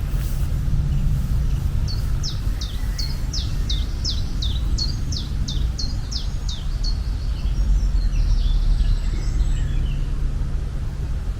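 A bird singing a quick series of about a dozen short, high, falling notes, about two or three a second, that trails off into fainter calls, over a steady low outdoor rumble.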